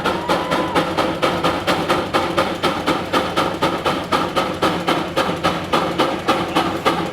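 A 50 horsepower Frick Eclipse steam traction engine pulling under load, its exhaust chuffing in a fast, even beat of about four strokes a second.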